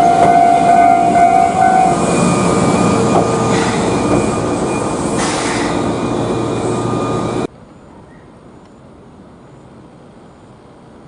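Train running, with a steady tone in the first two seconds. It cuts off suddenly about seven and a half seconds in, leaving a faint steady hiss.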